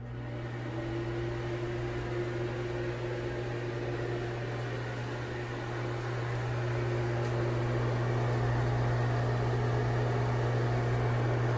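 Broan Heat-a-Vent bathroom exhaust fan running with a steady motor hum and blower whir, getting louder over the first couple of seconds as it comes up to speed after being switched on.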